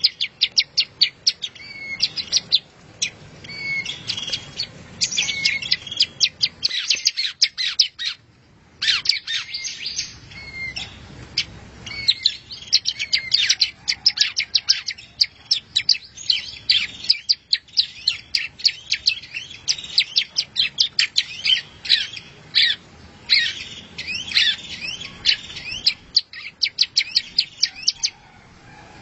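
Songbird singing a fast, continuous stream of high chirps and trilled notes, with a short break about eight seconds in.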